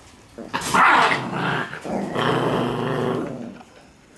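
Shiba Inu puppies growling and yapping while playing, with a sharp yelp about a second in and then a longer growl.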